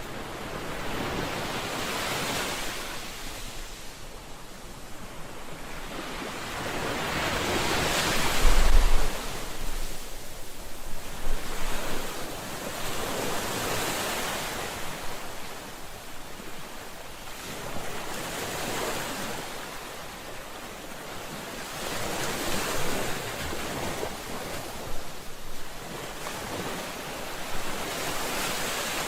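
Ocean waves washing onto a shore, the surf swelling and fading every few seconds. The loudest wave comes about eight seconds in, with a brief low rumble.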